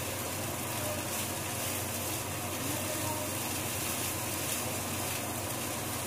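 Bagoong fried rice sizzling steadily in a frying pan as it is stirred and turned with a spatula.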